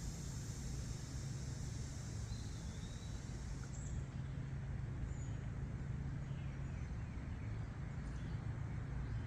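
Steady low outdoor rumble, like distant road traffic, with a few faint high chirps.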